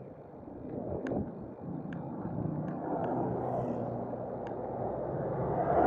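Rushing outdoor road noise with a faint vehicle engine, building steadily and swelling to a loud rush at the very end, typical of wind on the microphone of a riding cyclist's camera.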